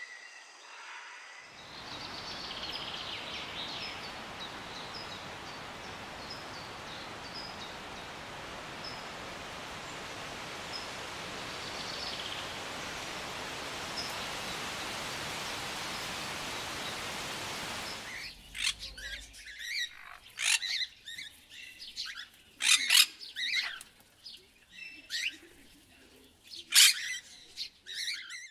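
Wild birds calling. At first, short high chirps sound over a steady hiss. About two-thirds of the way through, this gives way to a string of loud, sharp calls at irregular intervals, with quiet between them.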